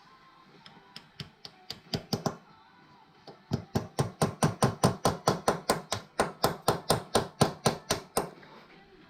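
Hammer blows on metal: a handful of strikes growing stronger, then after a short pause a fast, even run of about five hard blows a second lasting nearly five seconds.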